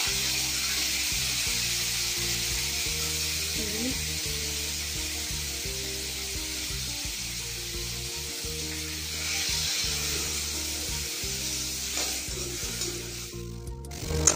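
Chopped tomatoes frying in hot oil in an aluminium kadhai: a steady sizzling hiss that dies away briefly near the end. Soft background music plays underneath.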